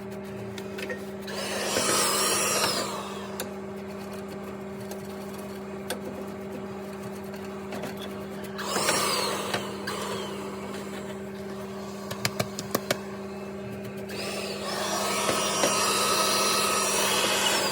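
Vacuum cleaner running with a steady motor hum, its hiss swelling three times as the nozzle draws in air and debris, with a few sharp clicks about twelve seconds in.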